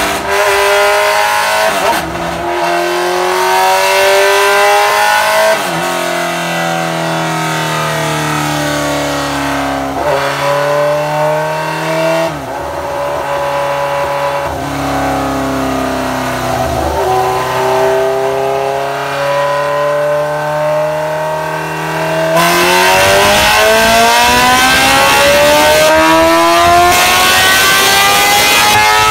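Suzuki GSX-R sportbike inline-four engine under load on a dynamometer. Its pitch breaks and resets several times during the first twenty seconds or so, then climbs steadily in one long, loud pull near the end.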